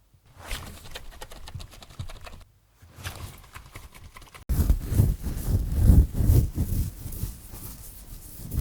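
Close-miked scratching and scraping, harsh and rapid, in spliced stretches: one section, then a louder one that starts abruptly about halfway through and cuts off sharply at the end.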